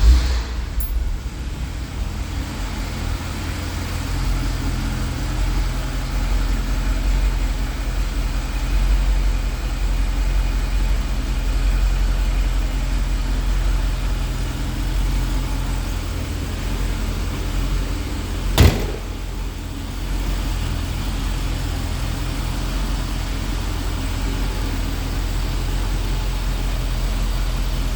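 Mercedes 350SL's 3.5-litre V8 running steadily just after a cold start. A single sharp knock about two-thirds of the way through.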